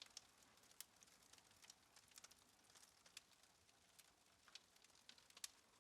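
Faint, irregular small clicks and ticks, one to three a second, over near-silent room tone.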